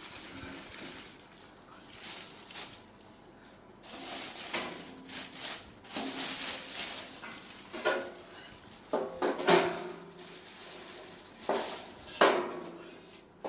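Metal barbecue grill parts being handled: irregular scrapes and clinks, with a few sharp knocks in the second half.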